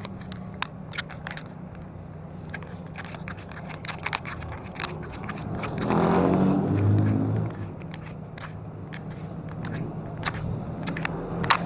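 Road and traffic noise heard while riding a bicycle, with scattered sharp clicks and rattles throughout. A motor vehicle's engine passes close, loudest from about six to seven and a half seconds in.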